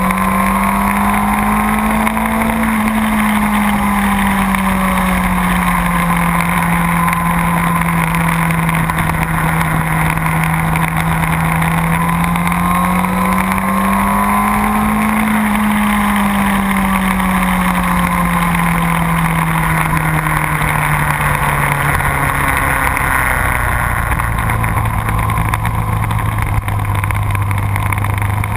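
Motorcycle engine running steadily under way, its pitch rising and falling gently twice, then dropping lower near the end, over a constant rush of noise.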